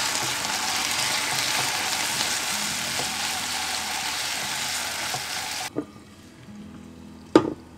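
Diced potatoes sizzling in hot oil in a non-stick kadai while a silicone spatula stirs them: an even, loud frying hiss that cuts off abruptly about two-thirds of the way through. A single sharp clink comes near the end.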